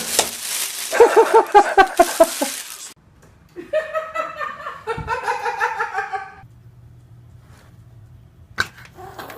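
People laughing: a rapid run of ha-ha laughter about a second in, over a loud rush of noise at the start, then a second stretch of laughter that fades out after about six seconds.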